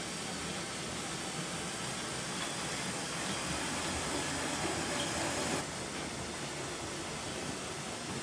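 Motorised Lego train running along plastic track, a steady whirring rumble of motor and wheels that grows a little louder, then drops suddenly about five and a half seconds in.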